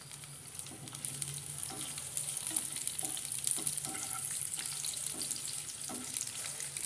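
Curry leaves and chopped green chilli sizzling in hot oil in a non-stick pan, getting louder about a second in. A slotted spatula scrapes and taps against the pan as they are stirred.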